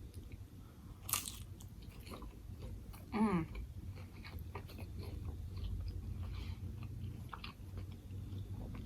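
Close-up mouth sounds of a person biting into a banh mi, with one sharp crunch about a second in, then chewing with soft, wet clicks. A short falling tone sounds a little after three seconds.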